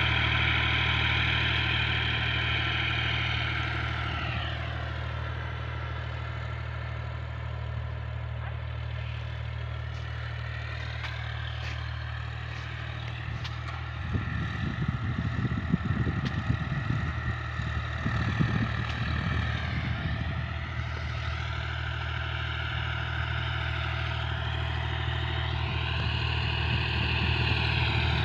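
John Deere tractor engine running steadily. Its pitch drops about four seconds in and climbs again later as the revs change, with a rougher, uneven stretch in the middle.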